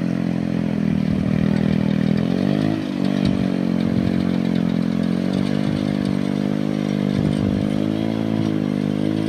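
Small engine of a boat-hauling winch running steadily under load. Its speed sags briefly about three seconds in and recovers, and it wavers again near the end.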